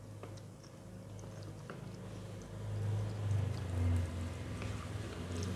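Eating at close range: a low chewing rumble that swells near the middle, with a few light clicks of a spoon against a plate.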